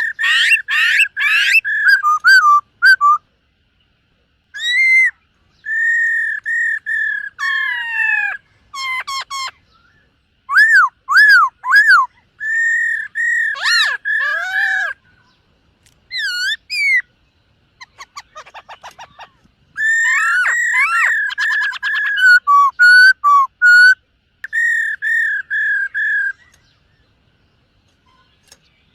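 Black-throated laughingthrush (khướu bạc má) singing loud, clear whistled phrases: runs of repeated notes and up-and-down slurs, broken by a few short pauses.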